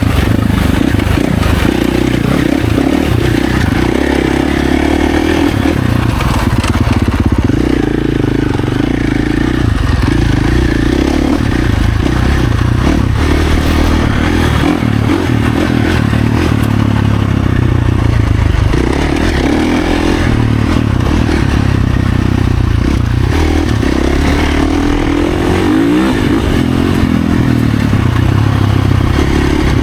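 Husqvarna FC450's single-cylinder four-stroke engine running hard while the dirt bike is ridden, its pitch rising and falling with the throttle, with occasional knocks.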